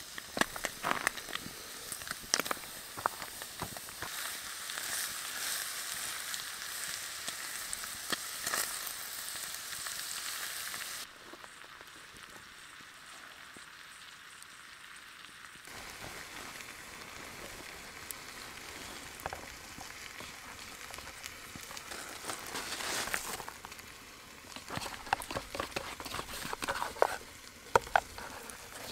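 Minced beef and onions sizzling in a metal pot over a campfire, with scattered crackling clicks. The sizzle drops off abruptly about eleven seconds in and comes back more faintly a few seconds later, with a run of sharper clicks near the end.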